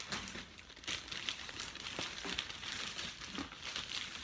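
A shipping bag crinkling and rustling in irregular bursts as an order is handled and packed into it.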